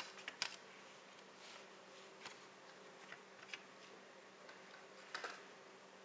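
Faint, scattered light clicks and taps, a handful of them spread irregularly, over a low steady hum.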